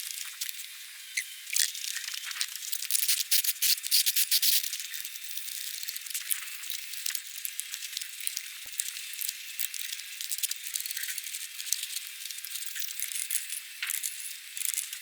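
Irregular clicking, rattling and scraping of hand work on a car wheel during a tyre change, densest a few seconds in.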